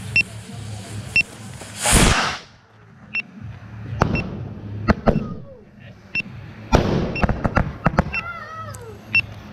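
Fireworks going off: a loud rushing whoosh about two seconds in, then sharp bangs and a burst of crackling, with falling whistles near the end. A faint high beep repeats about once a second.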